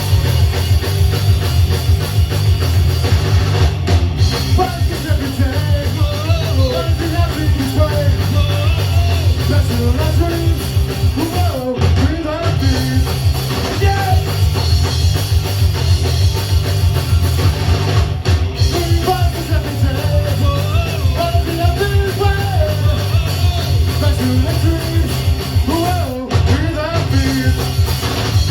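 Live punk rock band playing loud, with electric guitars, bass and a drum kit, and a singer coming in a few seconds in. The band stops dead for a split second several times, about every six to eight seconds.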